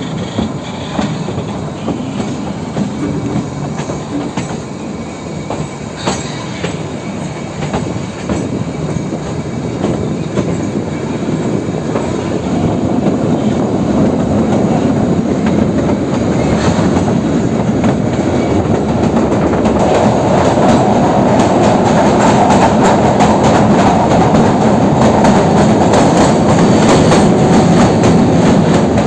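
Narrow-gauge train coaches rolling along the track, wheels clicking over rail joints. The running noise grows louder from about halfway and is loudest near the end, as the train runs into a tunnel.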